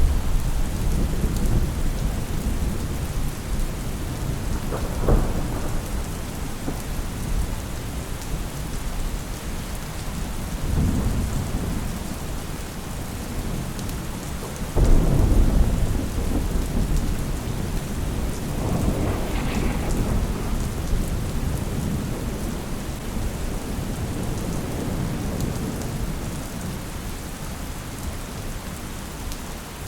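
Steady rain falling, with several rolls of thunder rumbling through it. The loudest roll starts suddenly about halfway through.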